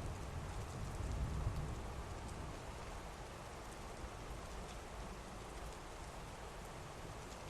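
Steady heavy rain. A low thunder rumble dies away over the first couple of seconds.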